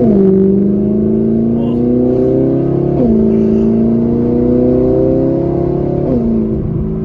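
Straight-piped, naturally aspirated V8 of an Audi R8 pulling through the gears on light throttle: the exhaust note climbs steadily in pitch, then drops sharply at each automatic upshift, about 3 s and 6 s in, and holds steady after the last shift.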